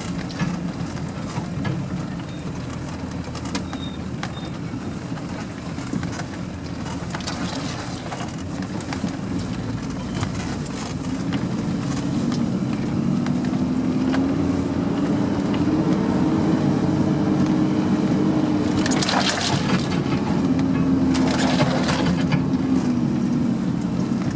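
Off-road vehicle's engine running under load, its pitch rising a little about halfway and holding there, with two short bursts of noise near the end.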